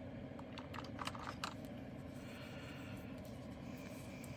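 Light clicks and taps of small plastic diamond-storage bottles and their box being handled, a cluster of them in the first second and a half, then a faint brief rub.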